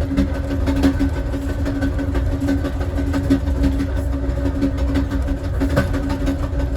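Southwest Chief passenger train in motion: a steady low rumble with a constant hum and scattered sharp clicks of the wheels on the rails.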